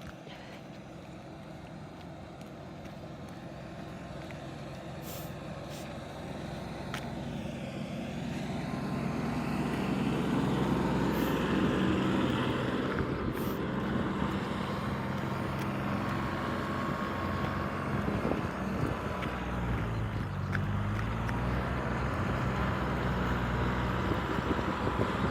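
A motor vehicle's engine drawing closer, growing louder over about ten seconds, then running steadily nearby with its pitch shifting up and down.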